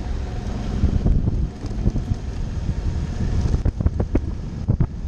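Suzuki V-Strom's V-twin engine running at low speed on a dirt trail, with wind buffeting the microphone. Near the end, a quick run of sharp knocks and clatters breaks in.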